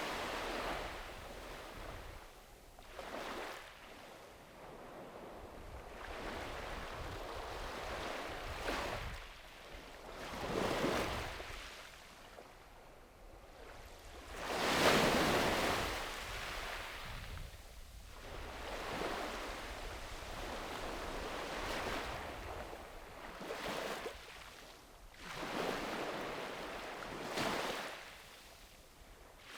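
Small sea waves breaking and washing up a sandy beach, each surge of surf swelling and fading every few seconds, with the biggest wash about halfway through. A low wind rumble on the microphone runs underneath.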